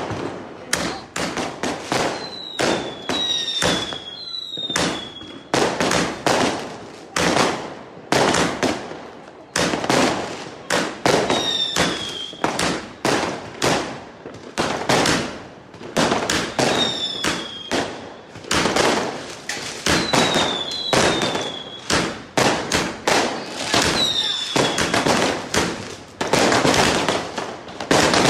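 Many fireworks going off at once, a continuous barrage of overlapping cracks and bangs. Short falling whistles cut through it several times.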